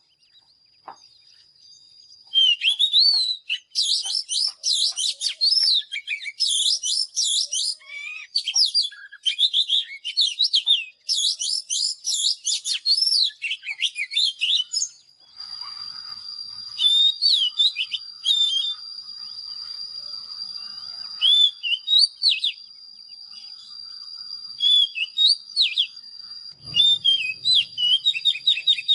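Oriental magpie-robin singing: rapid, varied whistled phrases with sweeping notes, packed tightly together for the first half and coming in shorter, spaced-out bursts later. From about halfway a steady high tone runs under the song.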